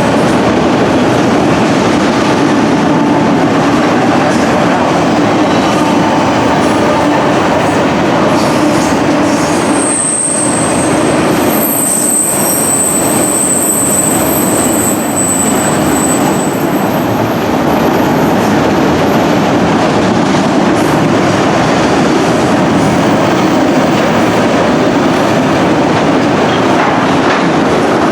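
Freight train running past on the rails, a loud steady rumble of wheels and cars. A high-pitched wheel squeal sets in about ten seconds in and lasts several seconds before fading.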